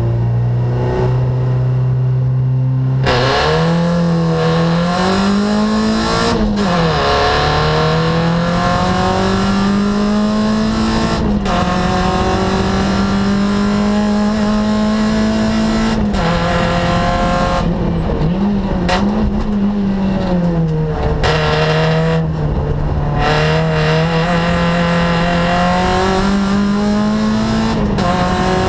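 Opel Astra rally car's engine heard from inside the cabin. The revs are held steady for about three seconds, then the engine pulls away hard at full throttle and climbs through the gears, each shift a sudden drop in pitch. Later the pitch falls and rises again as it slows and re-accelerates through the stage.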